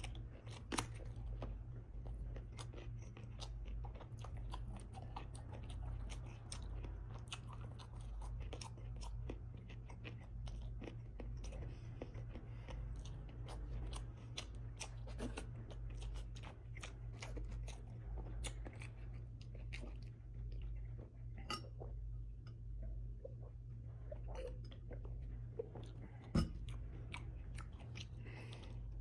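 Close-up chewing and crunching of a crisp fresh cucumber, many small crunches and wet mouth clicks one after another, with two sharper, louder clicks, about a second in and near the end. A steady low hum runs underneath.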